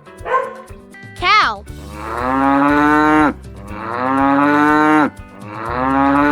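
A cow mooing three times, each moo long and drawn out. Just before the moos there is a single short dog bark.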